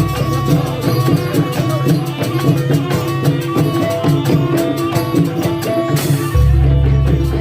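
Loud Javanese jaranan folk music: fast, busy hand drumming over ringing pitched percussion notes. A sharp stroke about six seconds in is followed by a deep, sustained bass.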